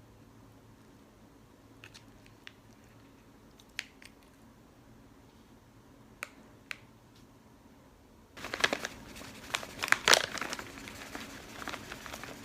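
A few light clicks and taps, then about eight seconds in a sudden dense stretch of crinkling and rustling, as of something crinkly being handled.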